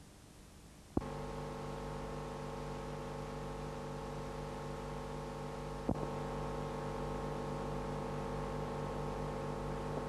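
A click about a second in, then a steady electrical mains hum with many even overtones, and a second click about six seconds in.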